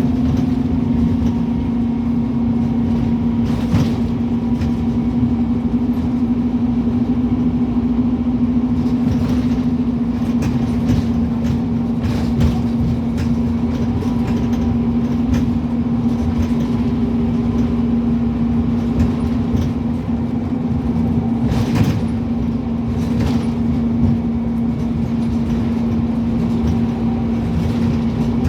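Scania N270UD OmniCity double-decker bus's diesel engine running at a steady drone while under way, heard from inside the bus, with road noise and a few sharp rattles or knocks.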